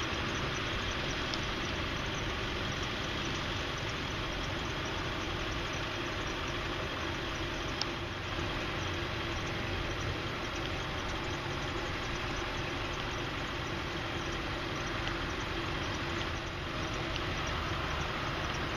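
Diesel engine of a Ford F550 bucket truck idling steadily, with a single brief click about eight seconds in.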